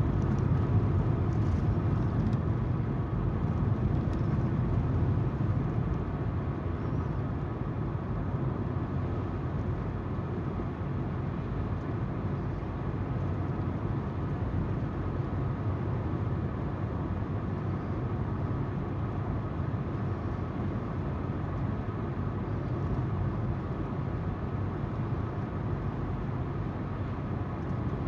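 Car driving along a road: steady tyre noise and engine hum heard from inside the car, a constant low rumble with no change in speed.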